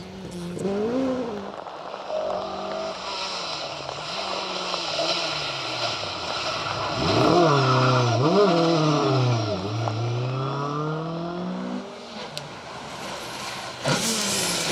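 Ford Escort Mk2 rally car engine revving hard along a stage. Its pitch climbs and drops sharply with throttle lifts and gear changes, and it is loudest in the middle as the car goes by. Near the end comes a sudden rush of noise.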